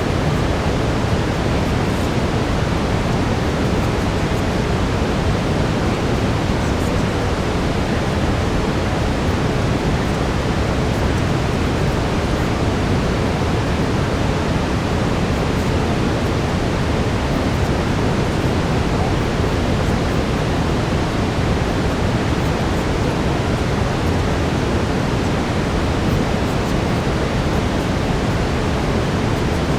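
Steady brown noise: an even, unchanging hiss weighted toward the low end.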